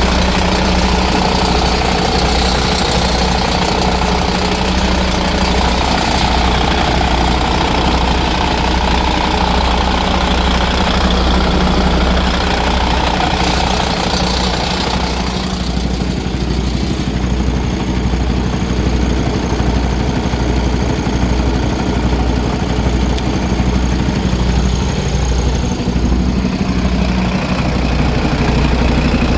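Used MAN diesel engine idling steadily, with an even low pulsing beat. Its higher-pitched clatter softens about halfway through.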